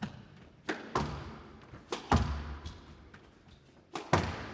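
Squash rally: the ball cracking off rackets and the court walls about five times, some hits in quick pairs, each with a short echo.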